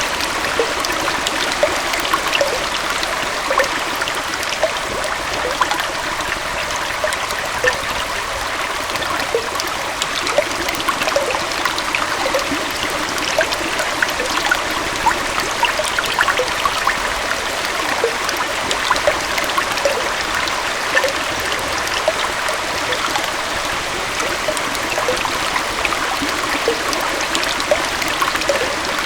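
Small waterfall and stream flowing steadily, an even rush of water with many small splashes and trickles.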